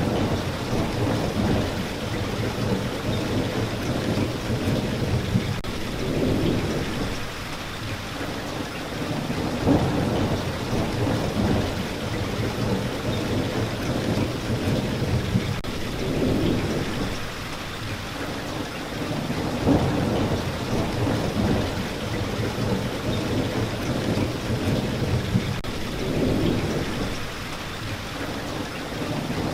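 Steady heavy rain falling, with low rumbles of thunder that swell and fade every few seconds.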